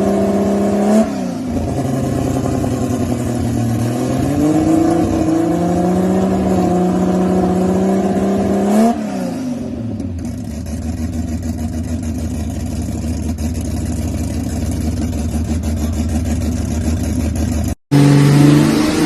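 Toyota 1JZ straight-six engine revving through its exhaust: a steady held rev, a quick blip about a second in, then a steady climb in pitch to a peak around nine seconds in, before it drops to a rough, lower running. It cuts off shortly before the end, and another engine note follows.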